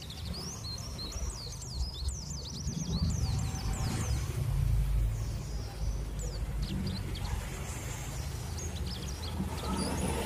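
Small birds chirping in rapid, short calls, busiest in the first few seconds and again past the middle, over a steady low rumble.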